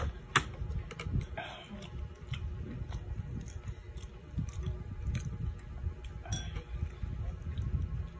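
Close-miked chewing and eating of tilapia soup with rice, with irregular soft mouth sounds. A couple of sharp clicks come right at the start, like a spoon against the bowl.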